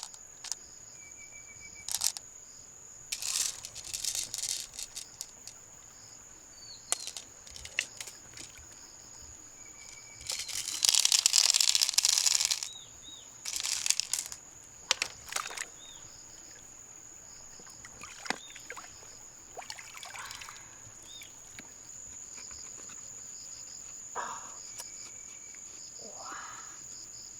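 A steady high-pitched drone runs throughout, broken by scattered short clicks and scrapes and a loud rush of noise lasting about two seconds near the middle.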